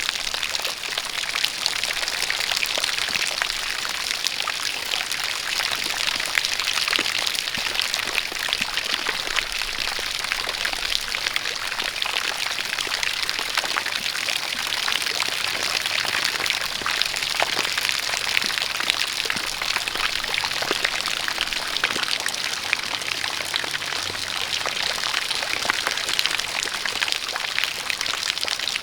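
Steady rain with many small drop impacts, mixed with a spout of water pouring and splashing.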